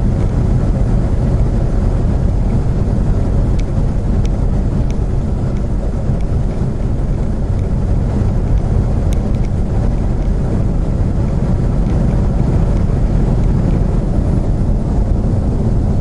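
Steady engine and road noise of a vehicle cruising on the interstate, heard from inside the cab as a constant low rumble.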